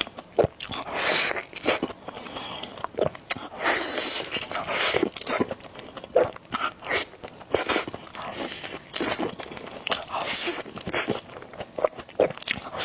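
Close-miked eating of spicy noodle soup: wet bites, chewing and noodle slurps in a quick irregular run of clicks and short hissy bursts.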